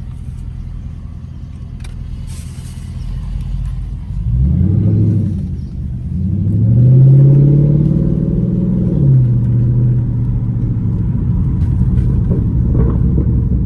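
Straight-piped Dodge Charger SRT8's V8 rumbling at low speed, then opened up about four seconds in: the exhaust note climbs, dips briefly, climbs again and holds loud, then falls back to a steady drone.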